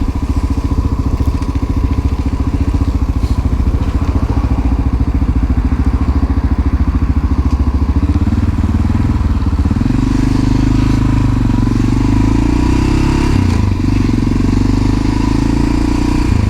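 A 1988 Honda NX650 Dominator's single-cylinder four-stroke engine is being ridden. It pulses at low revs for about eight seconds, then the revs rise as the bike picks up speed, with a brief dip a few seconds before the end.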